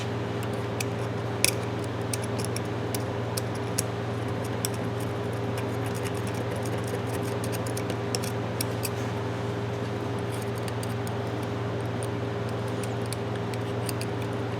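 Scattered small metallic clicks and taps from a rusted adjustable wrench being handled and worked to free it up. A steady low hum runs underneath.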